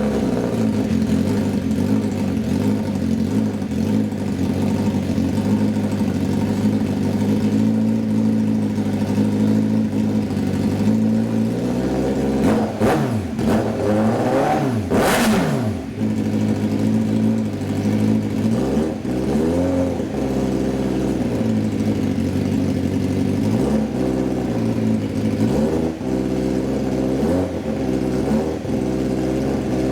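Honda CBR1000RR-R (SC82) inline-four engine idling steadily just after starting, blipped several times in the middle and later, its pitch rising and falling with each blip. Near the middle a brief sharp noise cuts through at the top of a blip.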